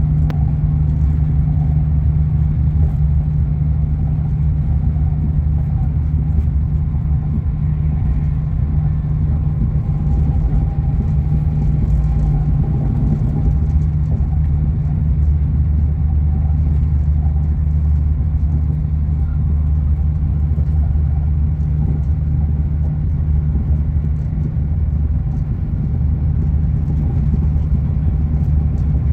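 Steady low rumble and running noise of a high-speed train at speed, heard from inside the passenger carriage.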